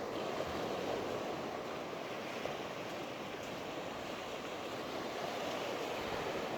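Surf washing onto a sandy beach: a steady, even rush of breaking waves.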